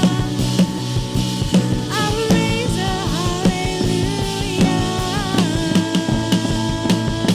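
Live worship band playing an instrumental passage: a drum kit keeping a steady beat under held keyboard or guitar chords, with a melody line sliding between notes about two to three seconds in.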